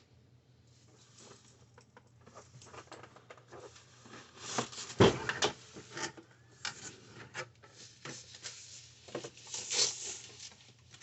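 Cardboard packaging and papers being handled: rustling, rubbing and small clicks, with a sharper knock about halfway through.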